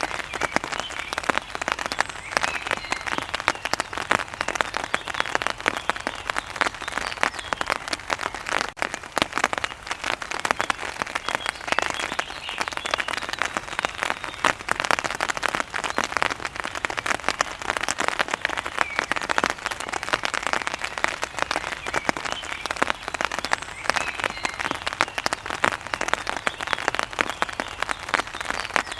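Steady rain, a dense patter of drops striking a surface close by.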